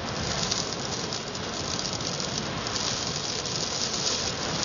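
Sand storm: wind-driven sand and grit pelting the windows, a dense hiss with fine crackling that rises in level at the start and then holds steady.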